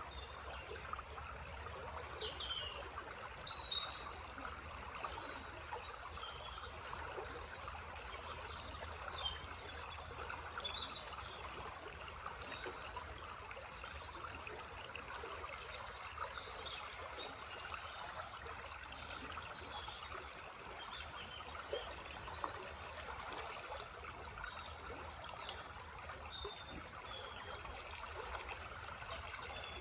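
Small forest brook trickling and babbling steadily, with small birds calling over it in short chirps and phrases several times.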